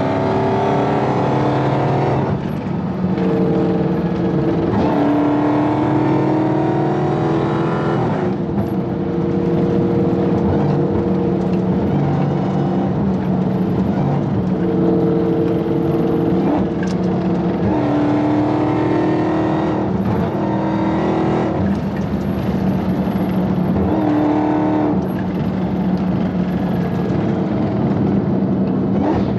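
Dodge Hellcat's supercharged 6.2-litre HEMI V8 accelerating hard through the gears. The engine note climbs steadily in each gear and drops at each upshift, every few seconds.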